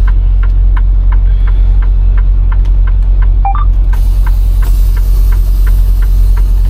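Semi truck's diesel engine idling, heard from inside the cab as a steady low hum, with a regular ticking about four times a second over it. A short rising chirp comes about halfway through, and a high hiss joins a little after.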